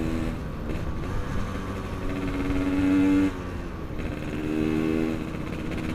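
Yamaha RX-King's single-cylinder two-stroke engine under way, revving up over about a second and then dropping off abruptly just past the middle, then pulling up again briefly near the end.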